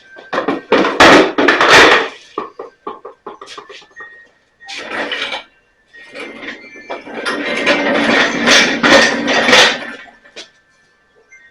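Clattering and scraping from equipment being handled on a hard floor, in three bursts, the last about four seconds long.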